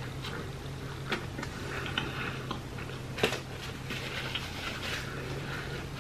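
Close-up chewing of a bite of fried chicken sandwich: wet mouth clicks and smacks, with a few sharper clicks, over a steady low hum.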